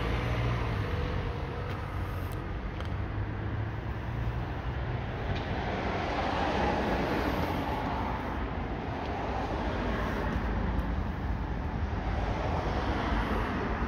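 Mash Five Hundred 400's air-cooled single-cylinder engine idling steadily.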